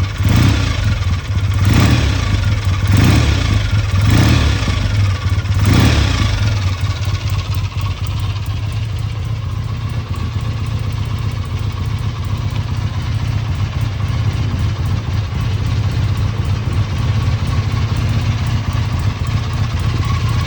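BSA A65 Lightning's 650 cc parallel-twin engine running just after a kick start, its revs surging about once a second for the first six seconds, then settling to a steady idle. It is running on a flat battery of about 8 volts, which the ignition doesn't like.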